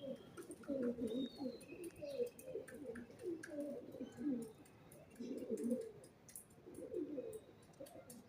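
Pigeons cooing in repeated low phrases, with a few faint high chirps from small birds.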